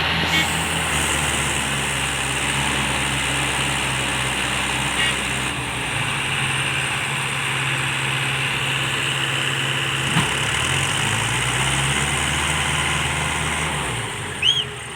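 Diesel engine of a heavy machine running steadily under a constant throttle, its pitch dipping briefly and recovering about ten seconds in, then easing off near the end.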